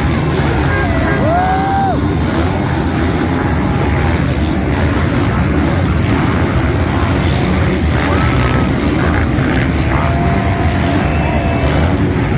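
Motocross bike engines running hard as several bikes race around the track, a steady dense drone with occasional rising and falling revs.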